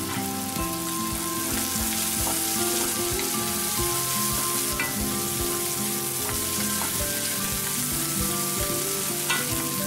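Chopped onions, green chillies and garlic sizzling as they fry in sesame oil in a wok. A wooden spatula stirs them, knocking and scraping against the pan now and then.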